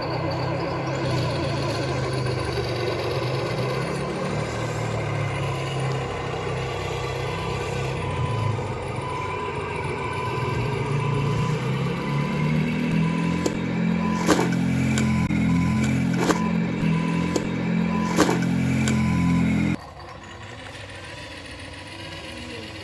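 Truck engine running steadily, then revving up about halfway through and held high, with several sharp clicks over the top. Near the end the sound drops suddenly to a much quieter engine.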